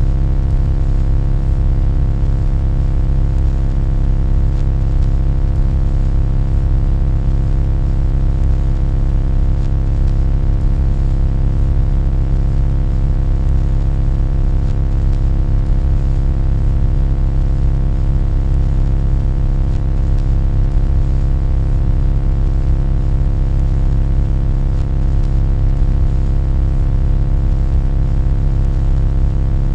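A loud, steady low-pitched hum with a dense stack of steady overtones above it.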